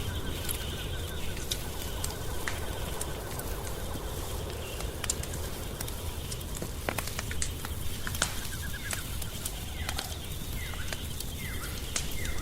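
Wood fire crackling, with scattered sharp pops over a steady low rumble. Birds call in the background, with a run of short falling chirps near the end.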